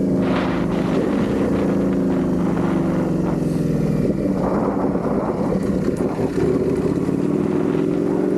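Ducati Panigale V4 motorcycle's V4 engine under way at a fairly steady pitch, easing off slightly mid-way, then rising as the bike accelerates near the end.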